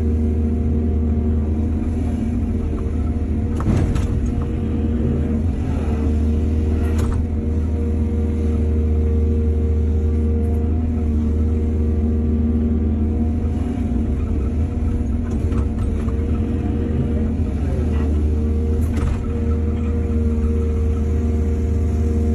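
Heavy diesel engine of an excavator running steadily under work, its note sagging briefly twice, with a few sharp knocks scattered through.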